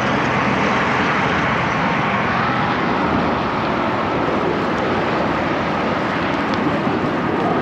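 Steady roar of road traffic on the freeway and frontage road alongside a moving bicycle, mixed with gusty wind on the microphone.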